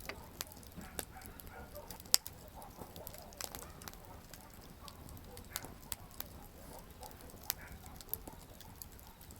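Wood campfire crackling: irregular sharp pops and snaps from the burning wood, the loudest about two seconds in, over a soft steady hiss of the flames.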